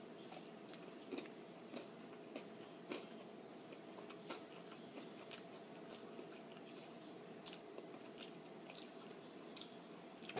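Faint chewing and mouth clicks of a person eating a fried chicken sandwich, with irregular soft clicks about once a second over a faint steady hum.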